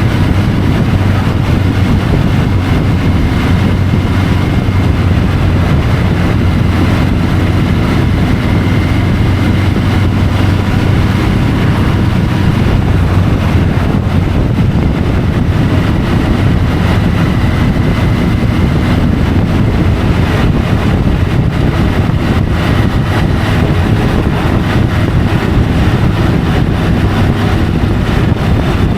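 Triumph Tiger 850 Sport's three-cylinder engine running at a steady pace while riding, heard from a camera mounted on the bike, with a steady background rush.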